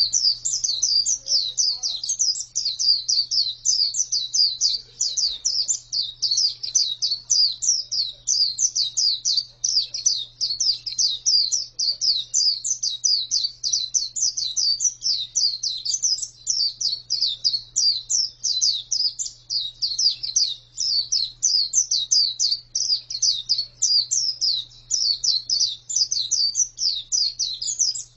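Female white-eye (pleci) singing a fast, unbroken run of high, quick chirps, many a second, without pause.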